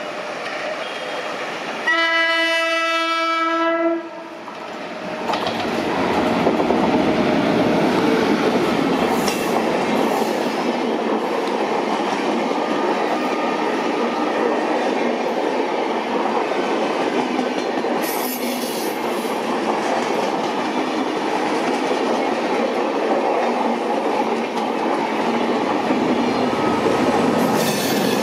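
WAP-7 electric locomotive sounding its horn in one steady blast of about two seconds, followed by the train's coaches running past close by, with steady wheel noise on the rails.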